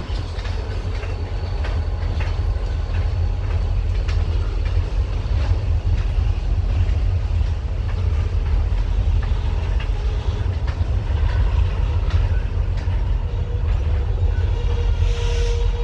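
Freight train of covered hopper cars rolling past, a steady low rumble with scattered clicks of the wheels over the rails.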